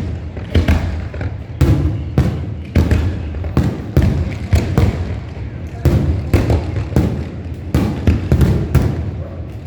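Fireworks shells bursting in rapid succession, about two sharp booms a second over a continuous low rumble.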